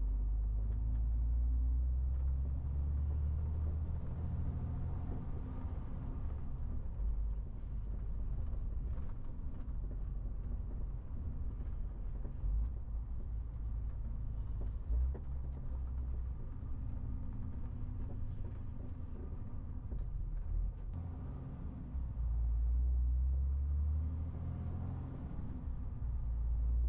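Low, steady rumble of a MAN TGX 18.470 truck's straight-six diesel engine and road noise while driving. It grows louder and fuller for a few seconds near the end.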